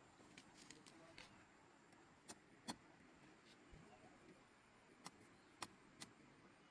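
Near silence with a few faint, sharp clicks scattered through it.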